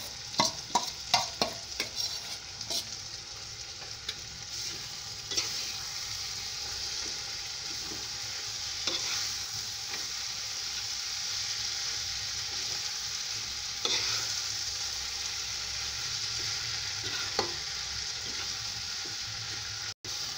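Prawns sizzling as they are stirred into a tomato-onion masala in a hot kadhai, over a steady frying hiss. A steel bowl and spatula clatter against the pan in the first couple of seconds, then the spatula knocks now and then as the stirring goes on.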